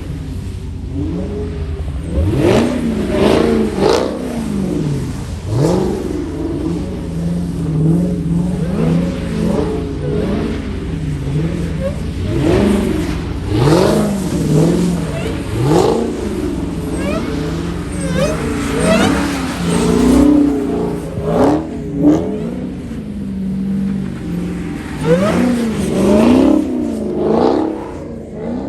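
Car engines revving over and over, each rev climbing and falling in pitch, over a steady low rumble.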